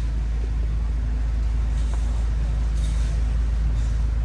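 Steady low rumble with a low hum underneath: the background noise of a large warehouse store, without a single distinct event.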